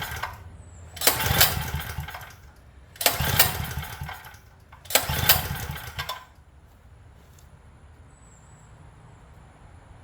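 Recoil starter rope of a Craftsman generator's small engine pulled hard three times, about two seconds apart, cranking the engine over for a compression test; with the tester in the spark plug hole it does not fire.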